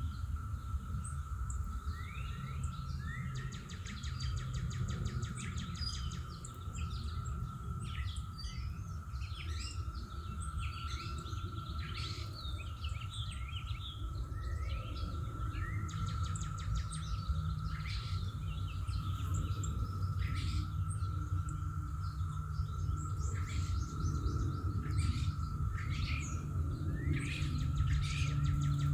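Several birds chirping and singing, with many short calls throughout. Beneath them run a steady high-pitched drone and a low background rumble, the rumble growing a little louder near the end.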